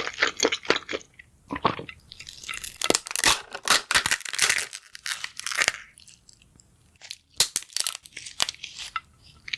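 Close-up crunchy chewing: a quick run of crunches at first, a denser stretch of crunching in the middle, a short lull, then scattered crunches near the end.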